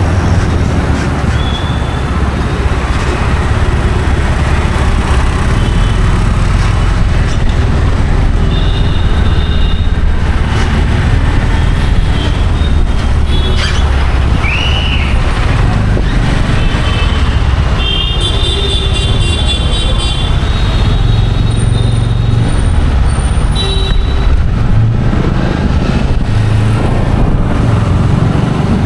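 Busy road traffic running steadily, with vehicle horns honking now and then, longest about two-thirds of the way through.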